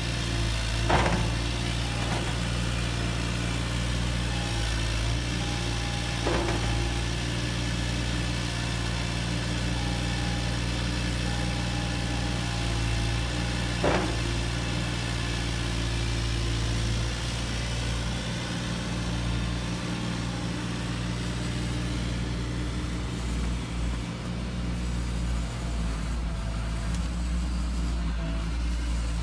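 Radio-controlled construction models running: a steady, engine-like hum with three short knocks, about a second in, about six seconds in and about fourteen seconds in.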